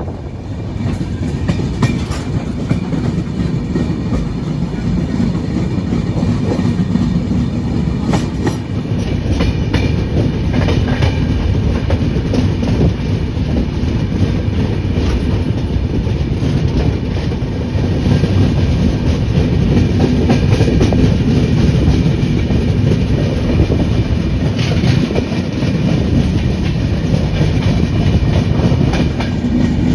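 Indian Railways express train running, a heavy low rumble with wheels clacking over rail joints; it grows a little louder about eighteen seconds in.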